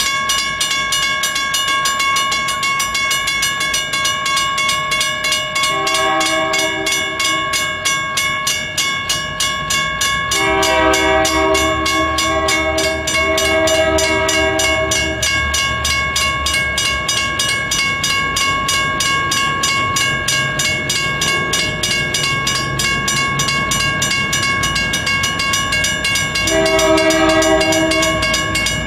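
Freight train hauled by five diesel locomotives, the engines running with a steady whine and a low rumble. The horn sounds three times: about six seconds in, again at around ten seconds in a longer broken blast lasting about five seconds, and once more near the end.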